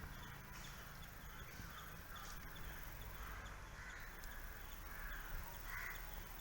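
Faint bird calls: a series of about six short calls a little over half a second apart, over a steady low background rumble.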